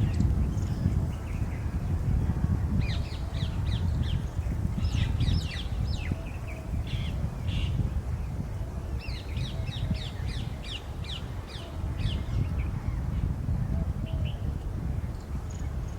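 Harsh, quick bird calls in two bouts of rapid notes, over a steady low rumble.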